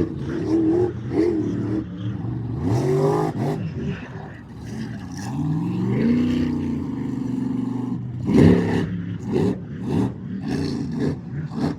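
Monster truck engine revving hard, its pitch climbing and falling several times and held high for a couple of seconds around the middle.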